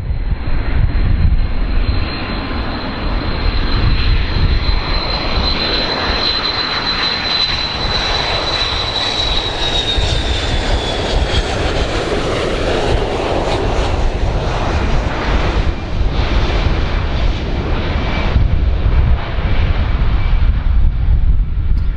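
Airplane engines running loud: a heavy rumble with a high thin whine that holds steady and then slides down in pitch about halfway through.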